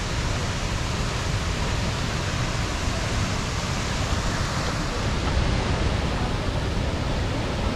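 Steady rushing of water from the 22-metre-high Cheonjiyeon waterfall plunging into its pool.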